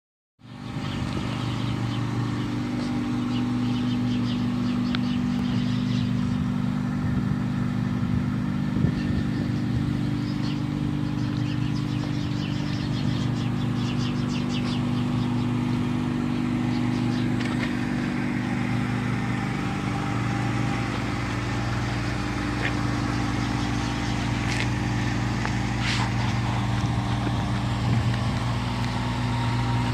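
Mazda RX-7's Wankel rotary engine idling steadily, heard from beside the car, with a few light clicks near the end.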